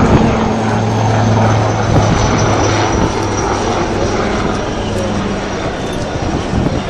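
Aircraft engine noise from a display flypast: a loud, steady low drone with a faint high whine that slowly falls in pitch.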